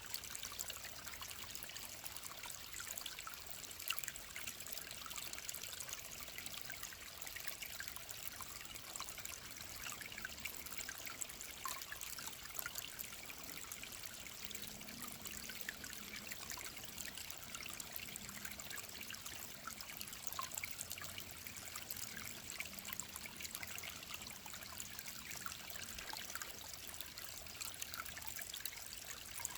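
Clear mountain stream trickling and babbling steadily, a continuous rush of water full of small splashes.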